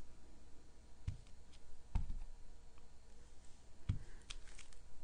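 A rubber stamp being inked and pressed onto cardstock on a tabletop: three soft thumps about a second, two seconds and four seconds in, with light clicks between.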